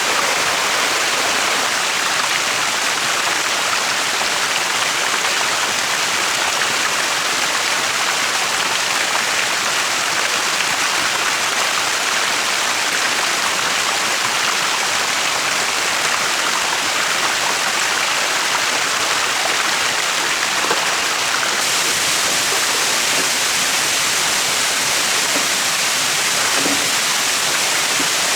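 Steady rushing of flowing water, an even hiss with no rhythm, growing a little brighter and hissier about three-quarters of the way through.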